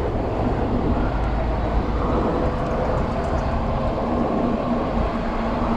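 Steady riding noise from an e-bike moving through city traffic: wind rumble on the body-worn camera's microphone, with traffic running and a steady hum.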